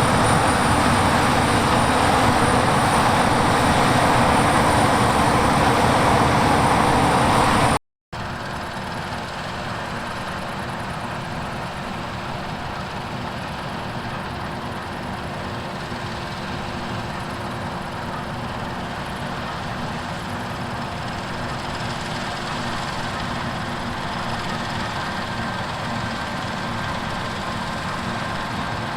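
Heavy diesel harvest machinery running steadily, loud and dense at first. About eight seconds in the sound cuts out for a moment, then a quieter, steady engine sound with a few held tones carries on.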